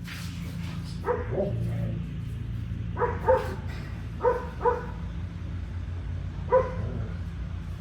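A dog barking: seven short barks, mostly in pairs, over a steady low hum.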